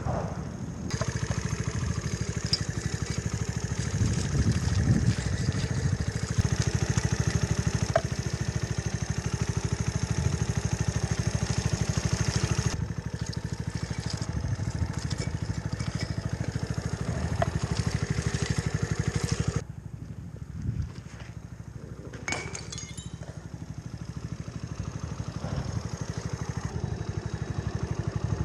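Mutt Akita motorcycle's single-cylinder engine running as it is ridden off-road. About two-thirds of the way through it drops suddenly to a quieter, lower running, then builds up again toward the end.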